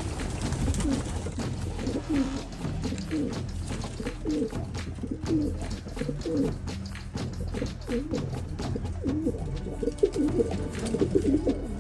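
A flock of racing pigeons cooing, many birds at once: a steady chorus of short, low coos that rise and fall.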